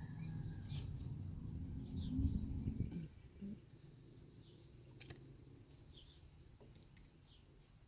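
Faint birds chirping outside, a series of short falling calls, over a low rumble that drops away about three seconds in; a single sharp click about five seconds in.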